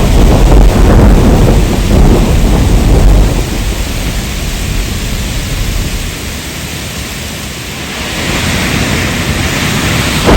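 Thunder rumbling over heavy rain: the deep rumble dies away about three seconds in, leaving a steady rain hiss that grows louder again near the end.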